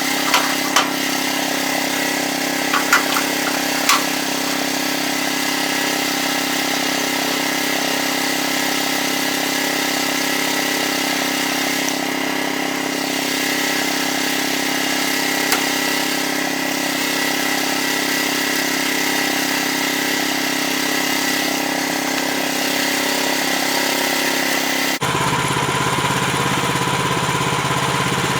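Gasoline engine of a portable band sawmill running steadily, with a few sharp knocks in the first few seconds. About 25 seconds in, the sound changes abruptly to a lower, rougher running note.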